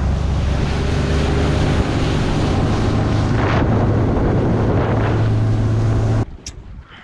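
Fishing boat's outboard motor running at speed, with heavy wind buffeting the microphone and water rushing past the hull; it cuts off suddenly about six seconds in.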